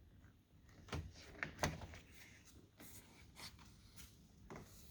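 Faint handling sounds of a rubber window channel being worked into a pickup truck's door frame over the glass: scattered light clicks and knocks with soft rubbing.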